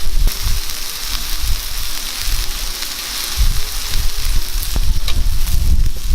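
Food sizzling and frying in a pan over a wood fire, a steady hiss with a low rumble swelling and fading underneath.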